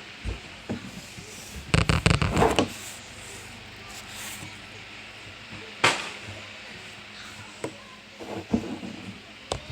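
Kitchen clatter of cookware and utensils being handled: a burst of knocks and rattles about two seconds in, a single sharp click in the middle and a few lighter knocks near the end, over a steady hiss.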